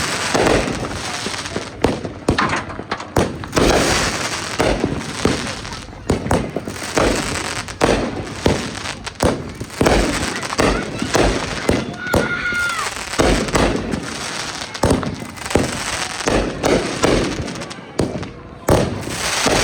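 Fireworks going off in quick succession: a continuous run of bangs and crackling pops.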